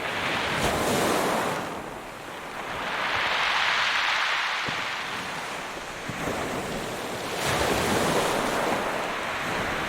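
Ocean surf: waves breaking one after another, each a rush of noise that swells and fades over a couple of seconds.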